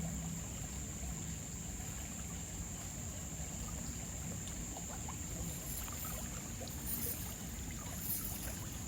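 River water running steadily, with a thin steady high-pitched tone above it and a few brief crackles in the second half.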